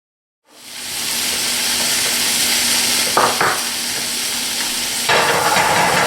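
Food sizzling and frying in a hot pan, fading in quickly. There are a couple of short knocks about three seconds in, and a busier, louder stretch of sizzle from about five seconds.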